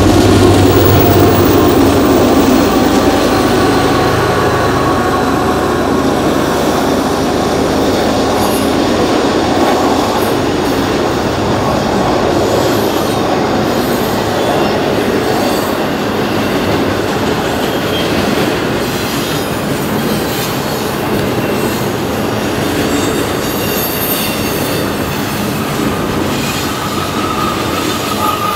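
Union Pacific double-stack intermodal freight train rolling past close by. The diesel hum of the last locomotives fades in the first few seconds, leaving the steady rumble and clatter of container-car wheels on the rails. A high wheel squeal comes in near the end.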